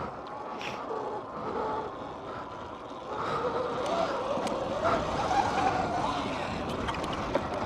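Dirt bike being ridden around a track: a motor whine rising and falling in pitch as it speeds up and slows, over a steady rush of wind and rumble.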